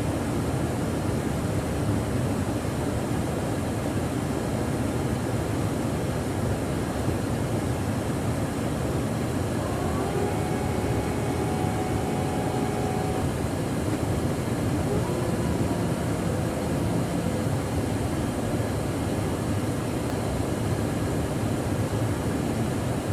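Steady, loud rushing noise of a jet aircraft in flight during aerial refueling. A few faint steady tones show up briefly around the middle.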